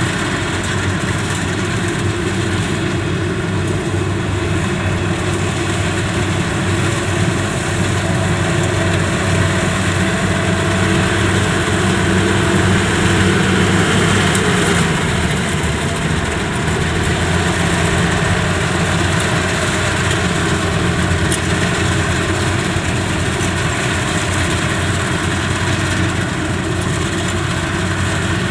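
Yanmar YH85 combine harvester's diesel engine running steadily under load while harvesting rice in a muddy field, getting a little louder around the middle.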